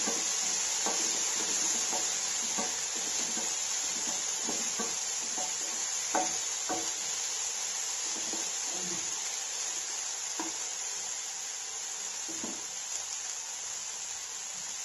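Chopped tomatoes and onions sizzling in oil in a non-stick kadai, with a wooden spatula scraping and knocking against the pan at irregular moments as it stirs.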